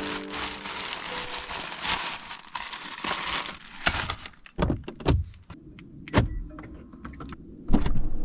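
Steady rain noise, then from about halfway a series of sharp knocks and thumps, the loudest near the end.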